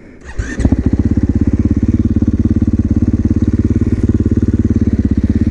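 2021 KTM 450 SMR's single-cylinder four-stroke engine starting about half a second in and then idling with a steady, fast, even pulse.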